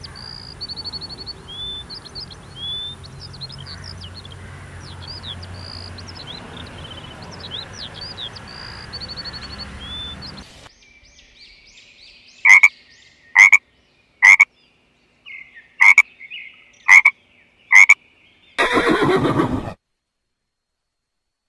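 Birds chirping over a steady background hiss, cut off after about ten seconds. Then a frog croaking seven sharp times at about one a second, followed by a harsh, noisy call about a second long.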